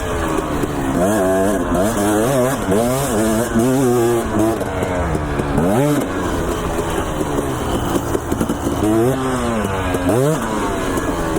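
Dirt bike engine being ridden, its revs rising and falling again and again as the throttle is worked, with quick sharp revs about a second and a half, six and ten seconds in.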